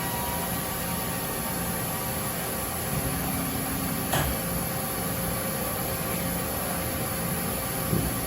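Mazak Slant Turn 60NRB CNC lathe running under power: a steady machine hum with a few steady tones, and a short knock about four seconds in and another near the end.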